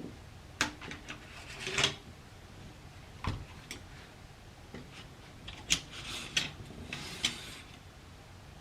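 Metal and wooden parts of an M1 Garand rifle being handled as it is taken apart: a few scattered sharp clicks and short scraping sounds of metal rubbing on metal.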